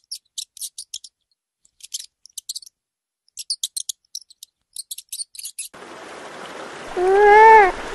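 Mouse squeaking in quick clusters of high, thin squeaks. After a cut, over a steady outdoor hiss, a beaver gives one loud whining call that rises and then falls in pitch, near the end.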